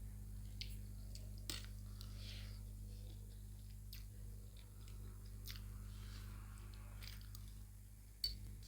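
Chewing and biting while eating chowmein noodles: soft mouth sounds with scattered small clicks and crunches.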